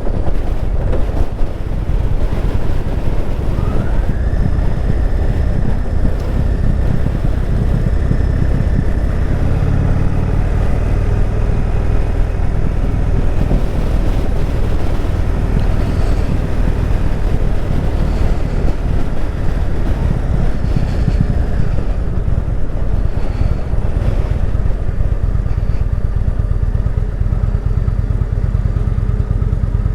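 Indian Chieftain Dark Horse V-twin motorcycle running under way, its low engine rumble mixed with heavy wind noise on the microphone. A faint higher whine rises about four seconds in and drops away after about twenty seconds.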